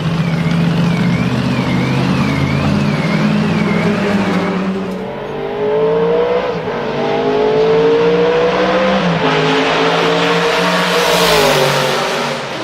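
Shelby Daytona Cobra Coupe's V8 exhaust, running low and steady at first, then accelerating from about five seconds in, its pitch climbing and dropping back through several gear changes. It swells loudest as the car passes close near the end. A high wavering tone sounds over the engine for the first few seconds.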